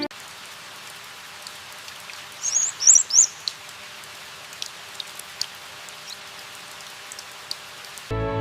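Steady rain hissing, with scattered drops ticking. A small bird gives a quick burst of high chirps about two and a half seconds in.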